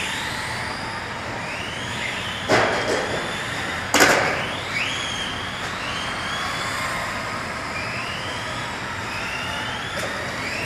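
Electric RC cars racing, their motors whining in rising and falling glides as they accelerate and brake. Two sharp knocks stand out, about two and a half and four seconds in.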